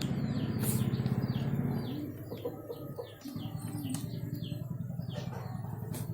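Small birds chirping over and over in short falling notes, over a low rhythmic rumble that is louder for the first two seconds and then eases off.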